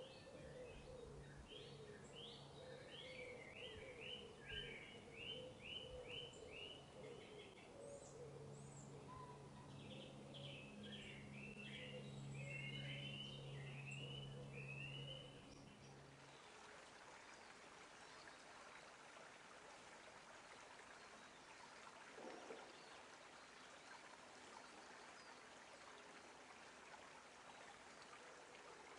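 A songbird sings two fast, warbling phrases over a low steady hum. About sixteen seconds in, this gives way abruptly to an even rush of running water.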